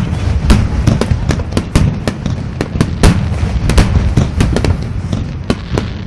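Aerial fireworks display going off in quick succession: many sharp bangs and crackles, several a second, over a continuous low rumble.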